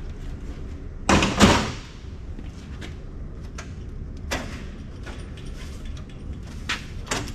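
A circuit board being slid out of a metal card cage: a loud scrape of the board along its rails about a second in, then a sharp click and a couple of knocks of board and metal rack near the end.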